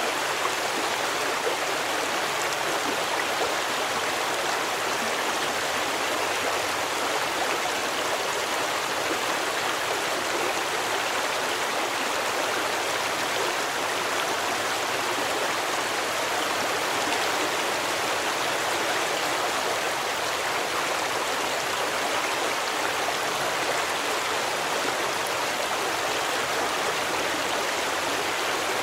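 A stream running steadily, an even, unbroken wash of flowing water.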